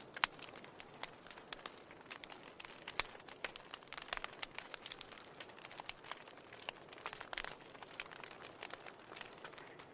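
Fire burning in a fireplace, crackling with frequent sharp pops and snaps over a soft, steady hiss.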